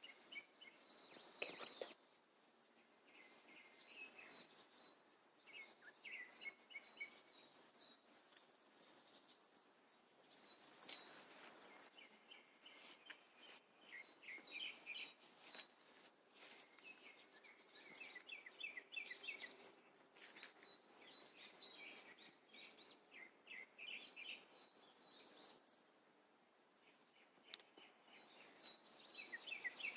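Songbirds singing faintly, with phrase after phrase of quick, high chirping notes repeated throughout, and a sharp tap or two.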